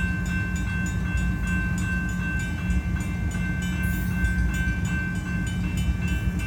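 Grade-crossing warning bells ringing steadily, an electronic bell and a mechanical bell together striking about three times a second, over the low rumble of a freight train rolling slowly through the crossing.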